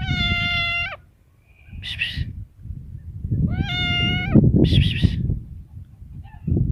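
Domestic cat meowing twice, each call about a second long and held at a steady pitch, with short rough, breathy sounds in between and a low rumble underneath.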